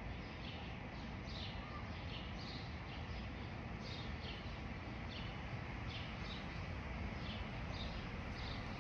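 Birds chirping, short high calls repeating about twice a second, over a low steady background rumble.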